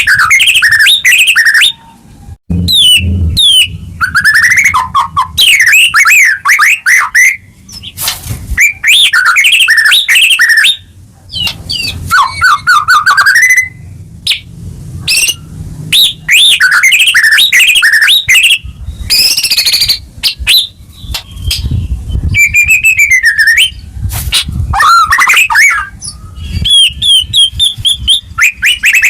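White-rumped shama singing a loud, fast and varied song of whistles, trills and sharp rapid notes, delivered in bursts of a second or more with short pauses between.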